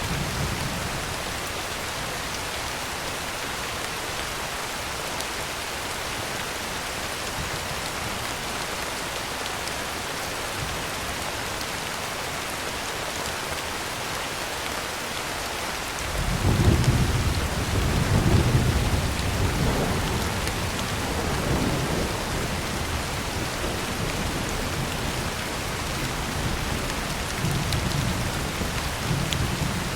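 Heavy rain falling steadily on a tin roof, a dense even hiss. About halfway through, thunder breaks in with a sudden deep rumble that rolls on in waves to the end.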